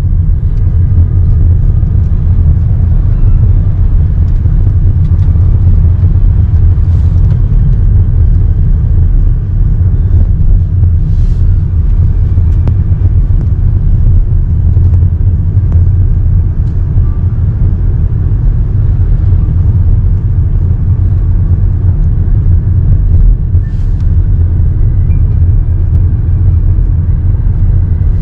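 Steady low rumble of a running car heard from inside the cabin, with a couple of faint brief clicks.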